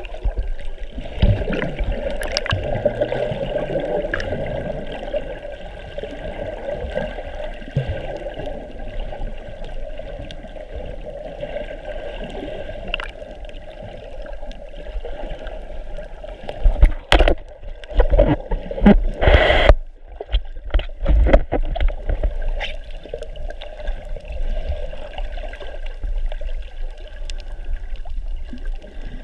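Water sloshing and gurgling around a snorkeler's camera, a steady churn with a run of loud splashes and knocks about 17 to 21 seconds in.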